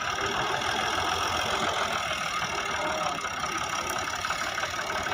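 Fiat 480 tractor's diesel engine running steadily, with a rapid, even firing beat.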